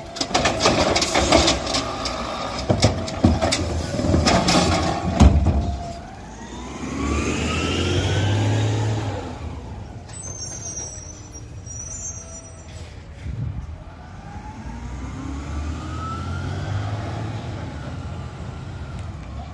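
Garbage truck at work: a few seconds of clattering and banging, then the engine revs up twice, its pitch rising each time, with a brief high squeal between the two revs.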